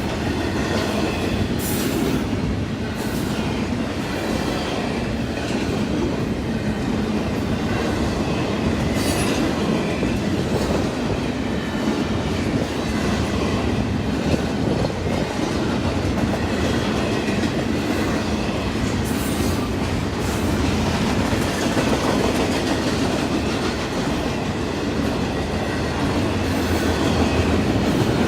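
A train's cars rolling past on the rails: a steady rumble with the clickety-clack of wheels over the track and brief high-pitched wheel sounds now and then.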